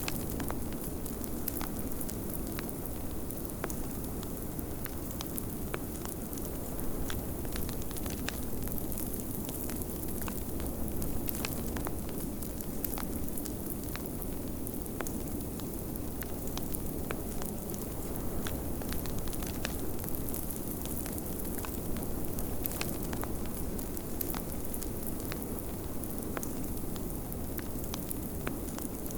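Wood fire crackling in a fireplace, with frequent sharp pops and clicks, over a steady low rumble of blizzard wind.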